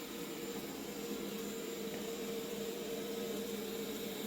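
bObsweep PetHair SLAM robot vacuum running, a steady hum with an even hiss of its suction.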